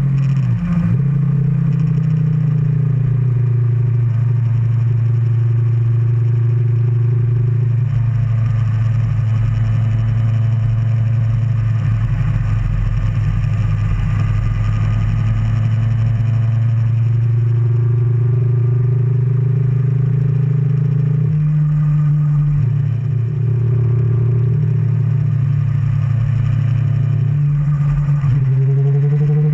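Kawasaki ZX-10R inline-four engine running at a steady cruise, with wind and road noise from riding. The engine note holds mostly even, changes briefly twice late on, and starts to climb at the very end as the bike speeds up.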